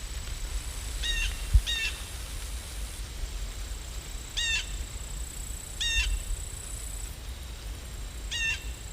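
A crow cawing five times, short harsh calls spaced a few seconds apart, over a steady background hiss and a faint high whine. A single dull thump about one and a half seconds in is the loudest sound.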